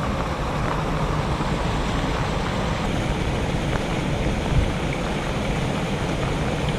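Heavy rain falling steadily, an even hiss with a low rumble beneath it, and a soft thump about four and a half seconds in.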